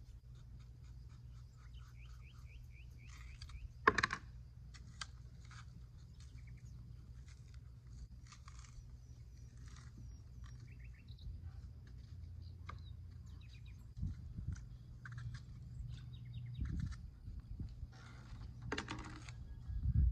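Birds chirping and trilling over a steady low hum, with one sharp knock about four seconds in.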